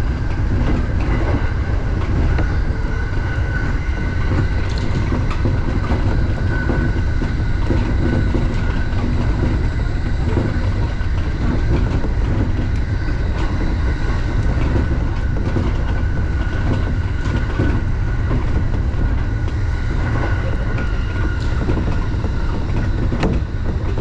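Electric commuter train running at speed, heard from the driver's cab: a steady low rumble with wheel-on-rail clatter and occasional sharp clicks from the rails, over a faint steady high whine.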